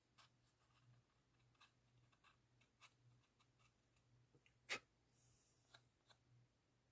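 Faint, scattered clicks and taps of small craft parts and tools being handled at a modelling bench, with one sharper click a little under five seconds in, over a faint steady hum.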